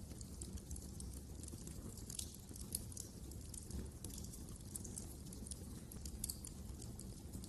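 Wood fire crackling in a fireplace: irregular small crackles with a few louder pops, over a low steady rumble.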